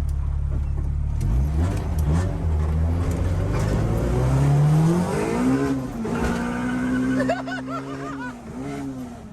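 Honda H22A four-cylinder engine under hard acceleration. The revs climb about a second in, dip at a shift, then climb for a couple of seconds more and hold steady through the last few seconds.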